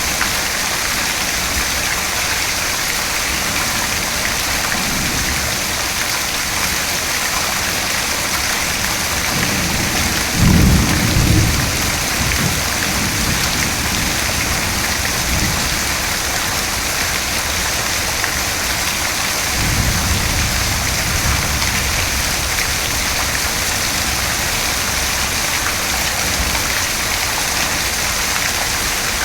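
Steady heavy rain falling, with a loud rumble of thunder about ten seconds in and a softer one about twenty seconds in.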